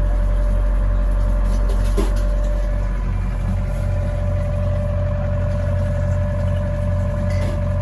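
Bavaria 44 sailing yacht's inboard diesel engine running at a steady speed while motoring, a constant low drone with a steady higher tone over it.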